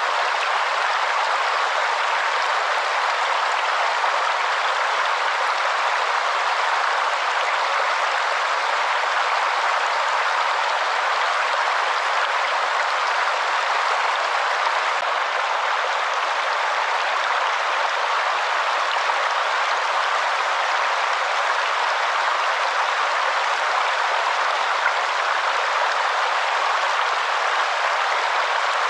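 Waterfall water rushing in a steady, unbroken hiss, with no deep rumble beneath it.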